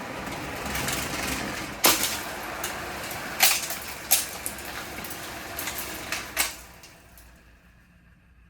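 A damaged box fan with broken blades running, its loose parts rattling, with four sharp cracks as pieces strike and break. The sound dies away near the end.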